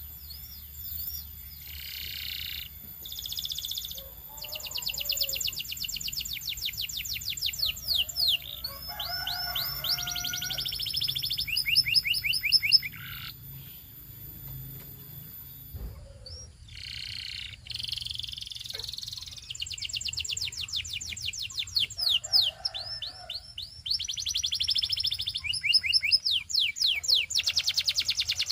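Belgian canary singing: long fast trills of rapidly repeated high notes, breaking off for a few seconds about halfway through and then starting again.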